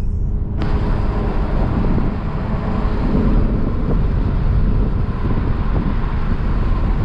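Car driving along at a steady pace: a continuous mix of engine, tyre and wind noise.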